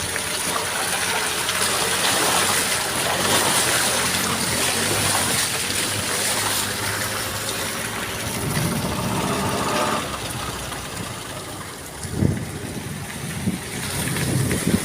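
Motor vehicle driving, its engine running steadily under road and tyre noise. The engine's tone drops away about ten seconds in, leaving lower road noise and a few short thumps near the end.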